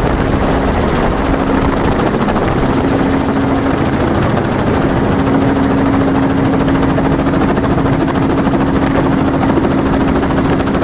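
Helicopter engine and rotor running steadily, heard from inside the cabin during the flight: a loud, even rush of noise with a steady hum and fast, even beating.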